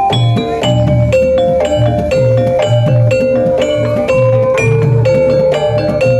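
Javanese gamelan-style music: struck metallophone notes ringing in a repeating melody over a steady drum beat of about two strokes a second.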